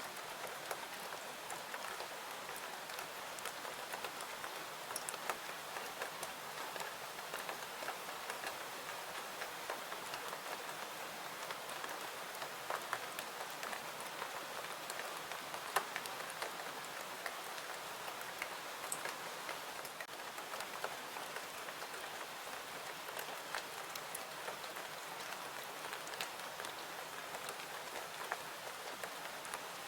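Steady rain falling, an even hiss with scattered light ticks throughout.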